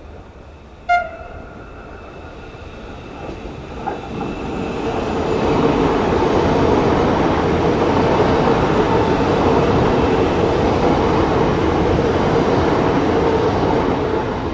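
Siemens Nexas electric suburban train gives one short horn toot about a second in, then approaches and runs past close by. Its wheel-on-rail and running noise builds over a few seconds to a steady, loud rush.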